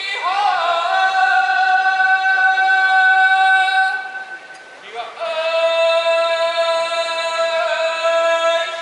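A sumo yobidashi's chanted call of the next wrestlers' names in two long, drawn-out sung phrases, each note held steady for about four seconds, with a short break between them.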